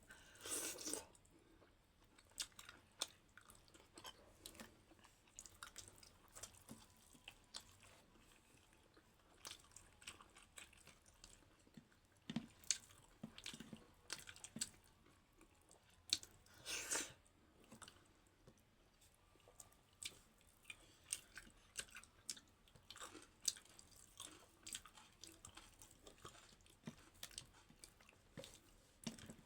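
Close-miked eating: a person chewing soft dhido and chicken curry with frequent small wet mouth clicks and smacks. Two longer, louder wet sounds come about half a second in and about halfway through.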